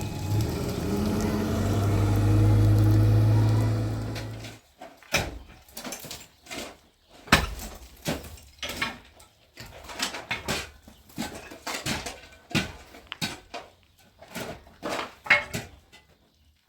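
Car engine running steadily, then switched off about four and a half seconds in, followed by a long run of irregular sharp knocks and clatters.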